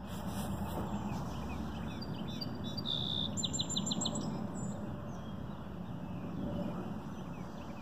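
A songbird singing: a few short high notes, then a held whistle about three seconds in and a quick run of about five notes, over a steady low background rumble.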